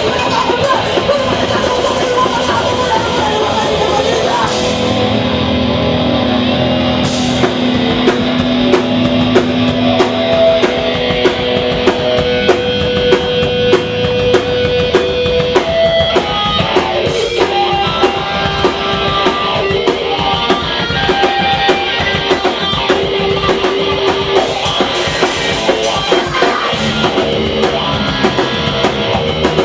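Hardcore punk band playing live: distorted electric guitars over a hard-hit drum kit. The cymbals drop out for a couple of seconds about five seconds in, then the drums come back in with steady hits.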